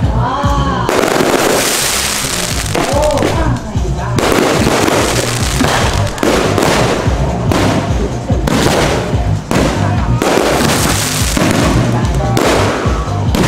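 Aerial display fireworks going off in a dense, nearly continuous barrage of bursts and crackling, with loud music playing underneath.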